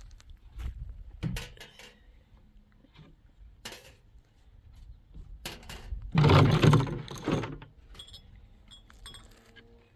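Scattered clinks and knocks of small hard objects being handled, with a louder clattering burst lasting about a second, around six seconds in.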